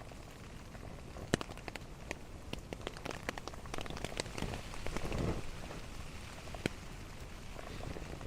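Rain dripping onto a tarp shelter: scattered sharp drops tapping at irregular intervals, thickest around the middle, with a louder swell of noise about five seconds in.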